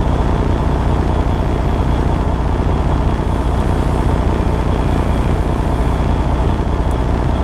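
Truck engine running steadily: an even, low rumble with a faint hiss above it that does not change.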